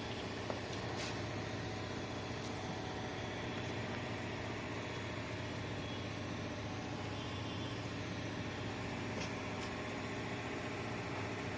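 Steady machine hum made of several even, unchanging tones over a hiss, with a few faint clicks.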